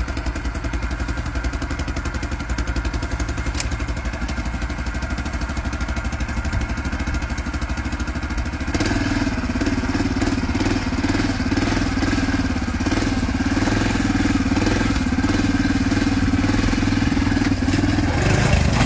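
An engine running steadily, with a rapid even pulse, growing louder and rougher about nine seconds in.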